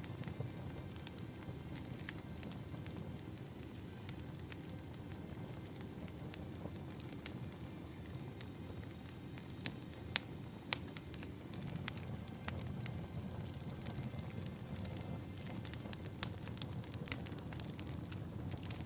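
Fireplace burning: a steady low rumble with scattered sharp crackles and pops, two of them louder about halfway through.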